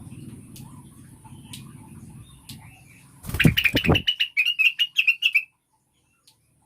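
Female greater green leafbird (cucak wilis) calling: a rapid run of high chirps lasting about two seconds, starting about three and a half seconds in. Low rumbling noise runs before it, and a loud rustling burst comes just as the chirps begin.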